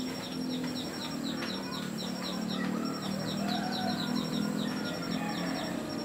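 Birds calling: a rapid series of short, high, falling chirps, about three to four a second, over a louder, low cooing.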